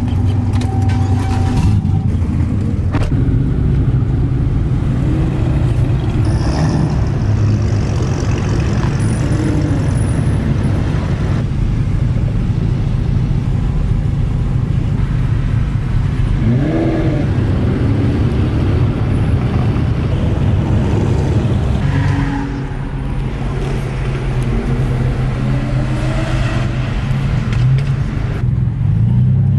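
Turbocharged V6 truck engine and exhaust running while driving, a steady low drone. The engine's pitch rises as it accelerates, about halfway through and again near the end.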